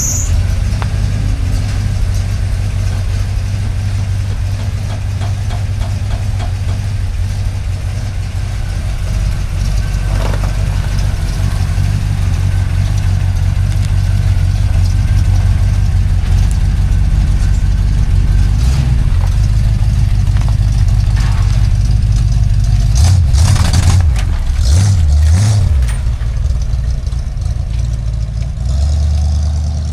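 Old pickup truck engine running with a steady low rumble, its pitch rising and falling a few times near the end.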